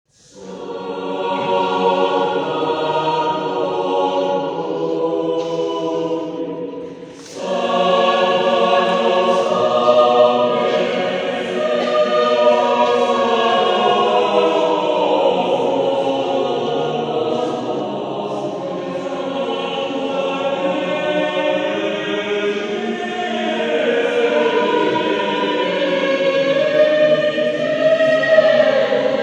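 Mixed adult church choir singing together in parts, with a brief pause between phrases about seven seconds in.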